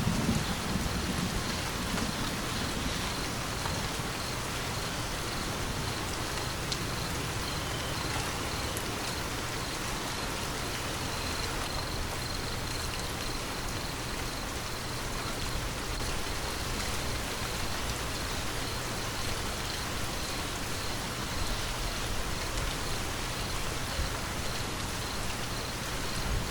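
Steady rain falling, an even hiss of drops with no break. The tail of a thunder rumble fades out in the first moment.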